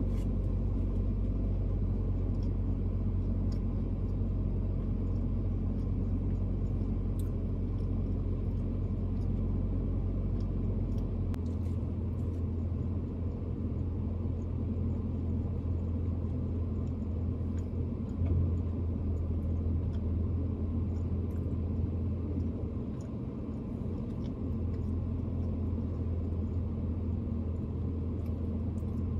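Car engine idling, heard from inside the cabin as a steady low hum; the hum shifts slightly higher about eleven seconds in.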